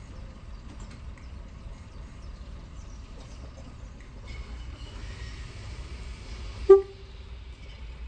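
Steam hissing from a steam locomotive for a couple of seconds, ending in one very short, loud toot of its whistle near the end.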